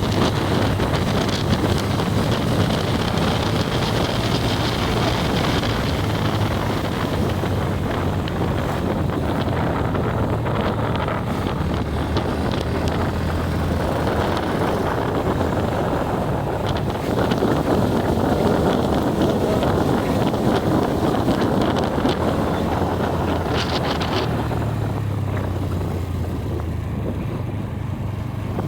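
Motorcycle running along a road with wind rushing over the microphone; the engine note rises briefly near the end.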